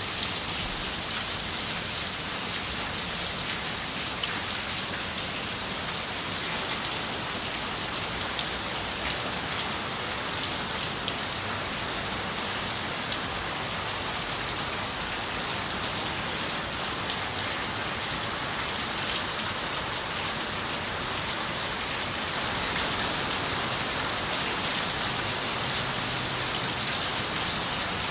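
Steady rain pattering on window glass, an even hiss dotted with small drop ticks, getting slightly louder about three-quarters of the way through.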